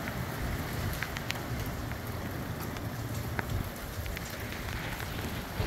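Moderate rain falling in gusty wind: a steady hiss of rain with a low rumble of wind, and a few single drops ticking sharply close by.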